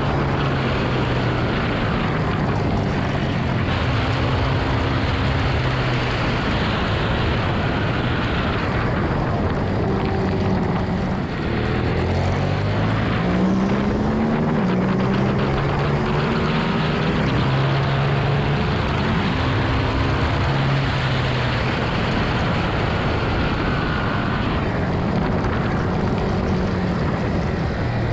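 Ducati Monster 1200R's L-twin engine at race pace, heard from the bike with wind noise. The engine note steps up and down through gear changes and a rising rev in the middle.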